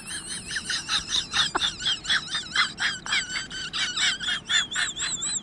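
A bird calling: a fast, even run of high, wavering chirps, about four a second.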